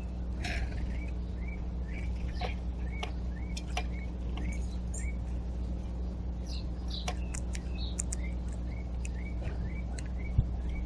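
Birds chirping in a rapid series of short notes, with scattered sharp clicks and a steady low hum underneath.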